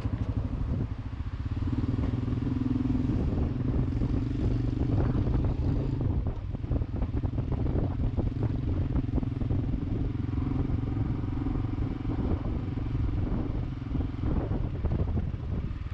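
Small single-cylinder motorcycle engine running steadily, from a Honda Cross Cub.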